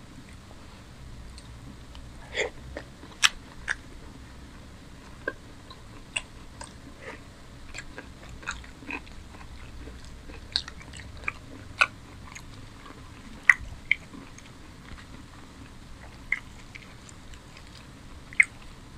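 Close-miked chewing and biting of a person eating paratha and chicken curry by hand, with irregular sharp wet mouth clicks.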